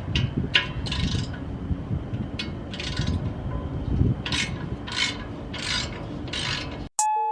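Ratchet wrench tightening the clamp of an exhaust tip, in a series of short rasping strokes, some in quick pairs. Music cuts in near the end.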